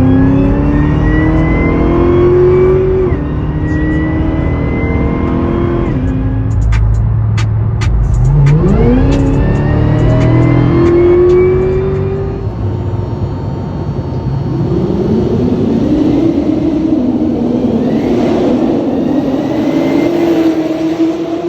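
Supercharged LSA V8 of a 2013 Cadillac CTS-V coupe pulling hard, its revs climbing with the supercharger whine rising alongside, the pitch dropping at shifts about three and six seconds in. After a run of sharp clicks, a second pull climbs steeply from low revs about eight seconds in, and in the last third the engine holds a wavering, steady note.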